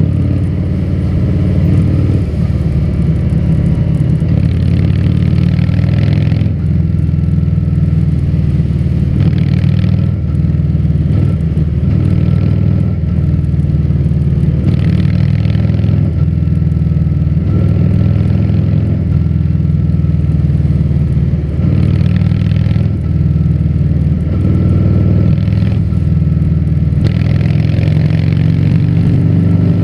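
Harley-Davidson Fat Bob 114's V-twin running through a Vance & Hines aftermarket exhaust while riding, a steady deep exhaust note with light changes in throttle. Patches of higher hiss come and go every few seconds.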